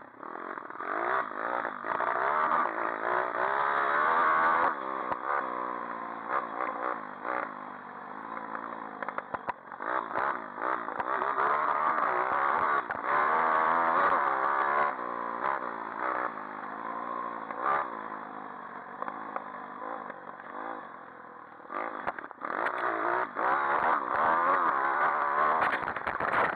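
Pit bike engine revving up and down as the bike is ridden, its pitch rising and falling again and again, with scattered clattering knocks.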